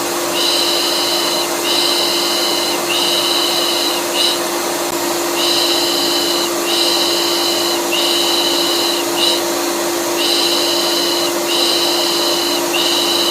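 Vacuum cleaner running with a steady hum, overlaid with a looped rhythmic shushing ('pış pış') sound used to soothe colicky babies: three longer shushes and a short one, repeating about every five seconds.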